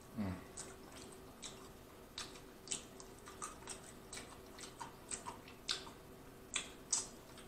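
Close-miked eating: a short falling hum at the start, then wet chewing with quick lip smacks and mouth clicks, irregular, a couple of times a second.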